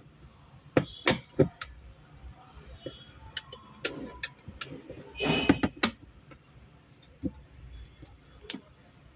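Scattered sharp metallic clicks and clinks of hand tools and bolts as the gear-lever cover plate's bolts are taken out, with a short rattle about five seconds in.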